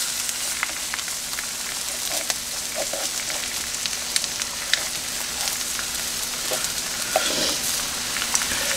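Eggs, bacon and hash browns sizzling steadily on a Farberware electric nonstick griddle. Scattered light ticks and scrapes come from a plastic spatula working the hash browns across the griddle surface.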